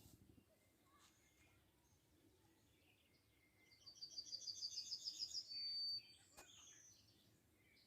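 A songbird singing a fast trill of repeated high notes that ends in a short held whistle, about four seconds in, with faint scattered bird chirps around it.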